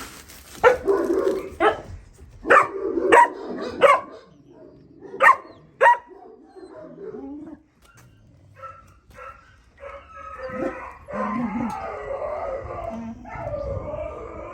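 Young puppies, about two and a half months old, giving about seven sharp, short barks in the first six seconds. From about ten seconds in comes a longer stretch of whining and howling.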